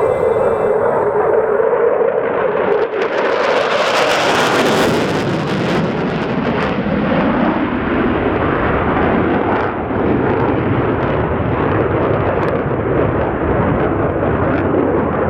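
Loud jet noise from a Boeing EA-18G Growler's twin turbofan engines. It peaks sharply and grows harsher about three to six seconds in as the jet passes close, then holds as a steady, loud noise.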